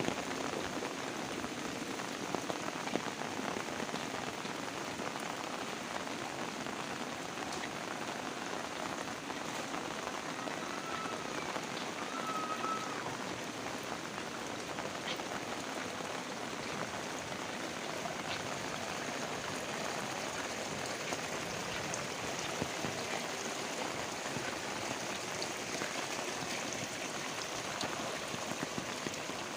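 Heavy rain falling steadily: an even hiss of rain on surfaces, with scattered sharper drop taps.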